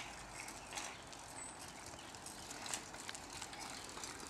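A child's bicycle rolling along with faint, irregular clicking and ticking.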